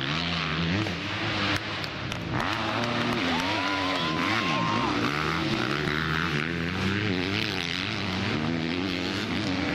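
Several motocross bike engines revving up and down as they ride, with their pitches rising and falling through throttle and gear changes. The engines overlap continuously, and for a second or two one holds a higher steady pitch.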